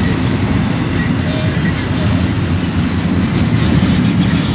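Train rolling by: a steady loud rumble of rail cars on the track with faint short wheel squeals.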